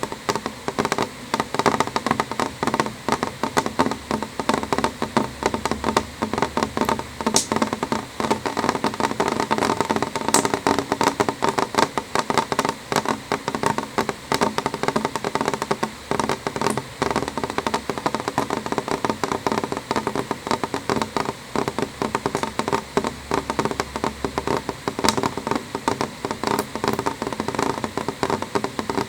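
Rain falling on a window pane: a dense, steady run of drops tapping on the glass, with a few louder single drops standing out now and then.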